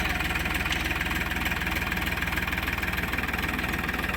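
Massey Ferguson 241 tractor's three-cylinder diesel engine running steadily at idle.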